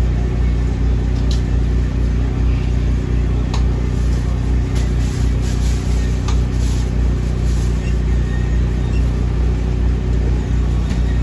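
A motor running steadily with a low, even hum, with a couple of faint clicks about one and three and a half seconds in.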